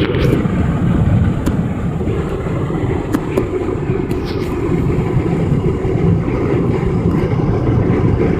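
Steady low road and engine rumble inside a car at highway speed, with a few sharp ticks and a brief hiss about four seconds in.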